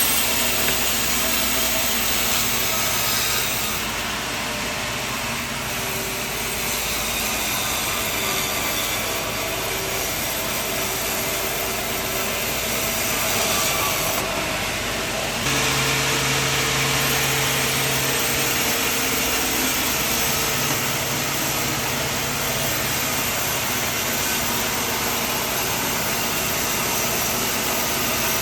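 Portable sawmill running steadily, its engine and blade cutting through a log, with sudden shifts in the sound about a third of the way in and again around halfway, where separate takes are joined.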